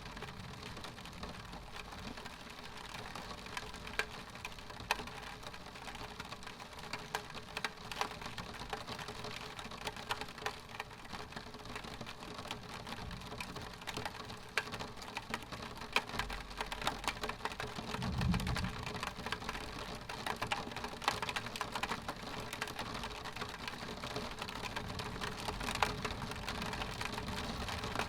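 Rain pattering on window glass: a steady hiss with many small, sharp drop ticks. A brief low rumble comes through about eighteen seconds in.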